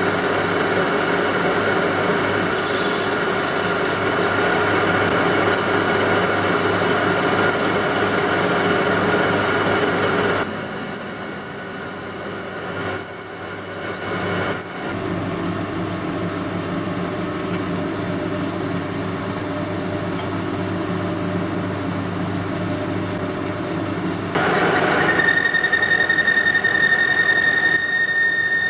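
A machine tool cutting metal: a steady mechanical running sound with a high, sustained squeal of the cut. The sound changes abruptly a few times as one stretch of work gives way to the next.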